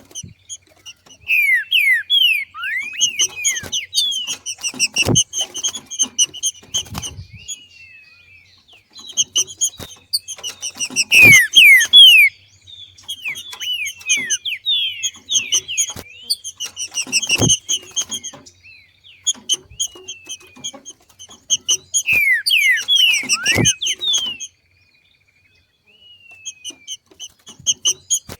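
Green-winged saltator (trinca-ferro) giving its 'macheado' call: repeated bursts of rapid, high chattering notes with quick falling glides, separated by short pauses and mixed with sharp clicks. There is a brief silence a few seconds before the end.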